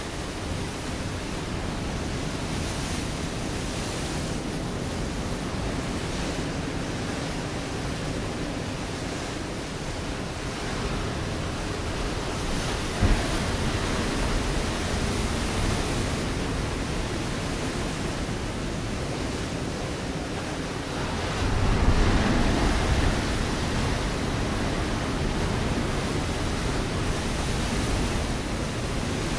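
Ocean waves breaking on a rocky shore: a steady wash of surf, with one bigger wave crashing about three-quarters of the way through and a brief sharp splash near the middle.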